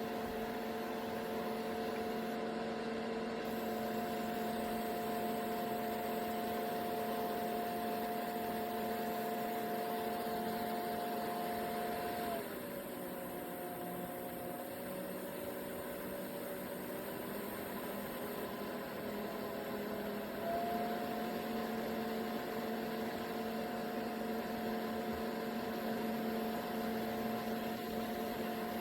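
Small portable air cooler's fan motor running with a steady hum. About twelve seconds in, the pitch glides down as the fan slows to a lower speed, and about eight seconds later it rises back to the higher speed.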